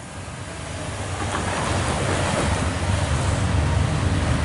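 A loaded coal train's diesel locomotives approaching: a low rumble with a wide rushing noise, growing louder over the first two seconds and then holding steady.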